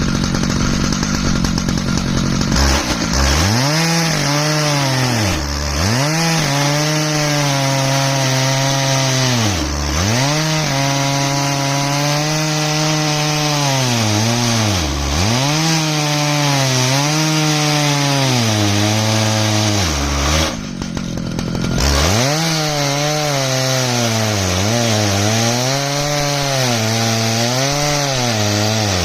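Stihl MS881 two-stroke chainsaw at full throttle on an Alaskan chainsaw mill, ripping along an ash log. It runs at a steady high pitch for the first couple of seconds, then drops in pitch and recovers again and again as the cut loads the engine down.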